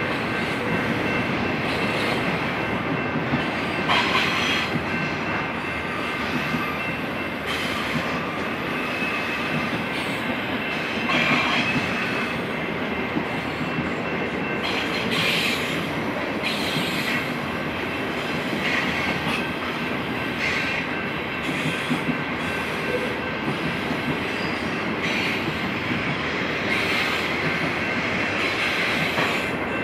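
Double-stack intermodal container cars rolling past on a curve: a continuous rumble of freight-car wheels on rail, with a steady high wheel squeal that flares up louder several times.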